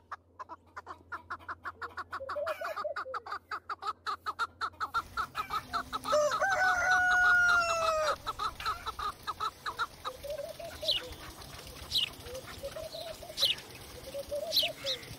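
Chickens clucking in fast repeated notes, then a rooster crows once, a long held call of about two seconds that is the loudest sound. Afterwards there are scattered clucks and short high chirps.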